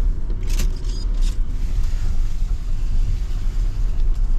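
Jeep Gladiator Rubicon crawling slowly off-road: a steady low engine and drivetrain rumble, with two short sharp noises about half a second and a second and a quarter in.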